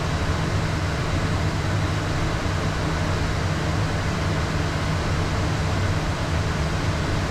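Steady in-flight cockpit noise of a Beechcraft Premier 1A twin-turbofan business jet: an even rush of airflow over a constant low hum.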